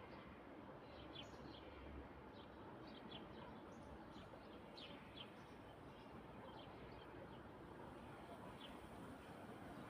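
Faint bird chirps, short and scattered, over a steady low background hiss.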